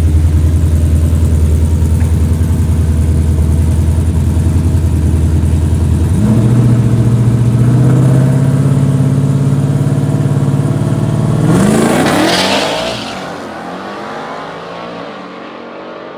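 Drag-race engines at the starting line, first idling with a steady low pitch. About six seconds in they are brought up to a higher held rpm. Near twelve seconds they launch with a loud burst and pull away down the track, falling in pitch and fading.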